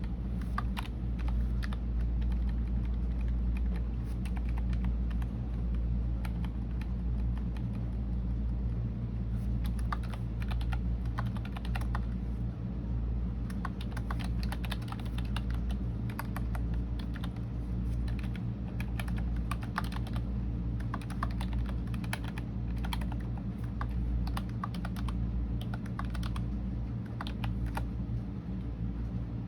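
Computer keyboard being typed on in irregular runs of keystrokes, over a steady low hum.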